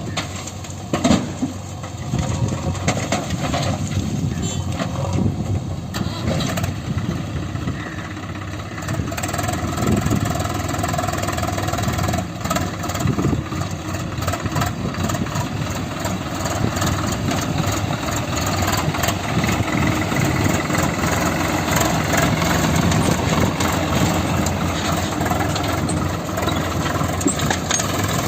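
Heavy diesel engine of farm machinery running steadily with a few knocks in the first couple of seconds. About nine seconds in, a steadier, higher engine note sets in and holds.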